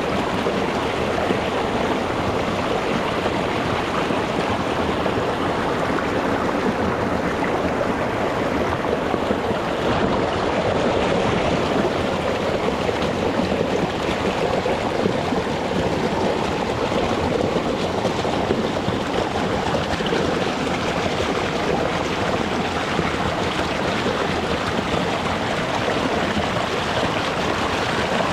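Rocky mountain stream running over stones: a steady, even rush of flowing water.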